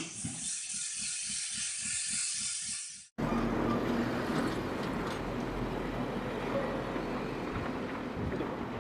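Heavy machinery: a low rhythmic knocking about four times a second, then after an abrupt cut a steady engine drone mixed with rushing noise.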